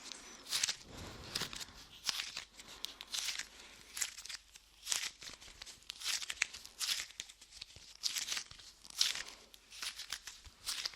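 Light modelling clay pressed onto and peeled off a microphone, giving irregular sticky crackles and tearing sounds several times a second.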